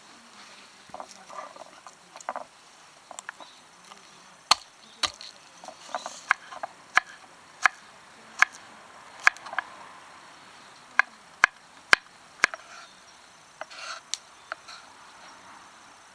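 Knife chopping on a wooden cutting board: a run of sharp knocks, roughly one every three quarters of a second, with a few softer taps before and after.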